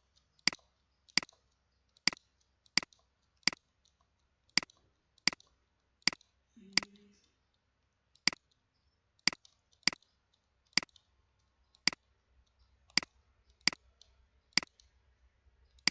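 Computer mouse clicking: single sharp clicks, about one or two a second, with a few short pauses between runs.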